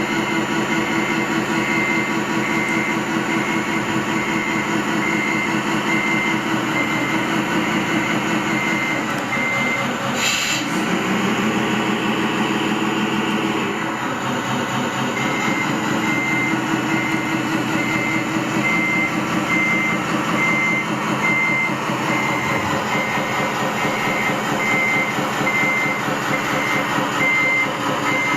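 Truck engine running with a reversing alarm beeping at an even pace. The beeping stops for several seconds in the middle, where there is a short burst of hiss.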